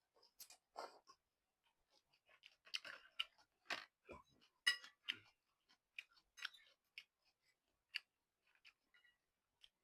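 Close-up eating sounds of a person chewing and slurping noodle soup: irregular wet smacks and small clicks with short quiet gaps between them.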